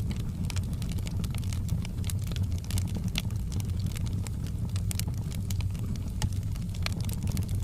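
Wood fire in a fireplace crackling, with frequent small sharp pops and snaps over a steady low rumble.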